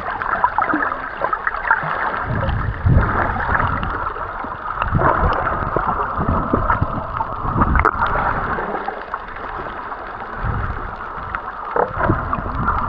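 Water sloshing and gurgling, with irregular low thumps and surges.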